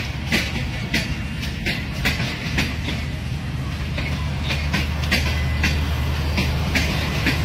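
Passenger coaches of a Pakistan Railways express train rolling past, their wheels clacking over the rail joints in irregular clicks, about one or two a second, over a steady low rumble.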